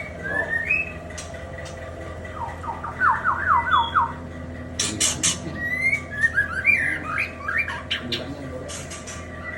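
White-rumped shamas calling: short rising whistles, a quick run of about six notes, and harsh clicking rasps.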